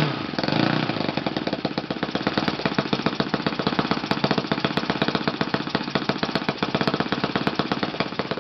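Kalt FC-1 four-stroke glow model engine with a propeller, briefly opened up in the first second and then dropped to a slow idle, its firing beats coming evenly and distinctly. It is idling on a Yamada No. 4 glow plug, which gives this engine its lowest idle.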